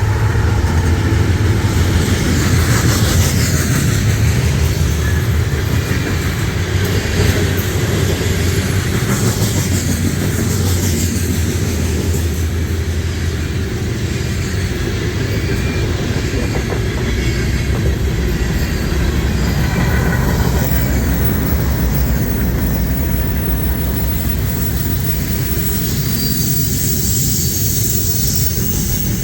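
A train passing by at close range: a loud, steady rumble of wheels running on the rails that holds for the whole stretch.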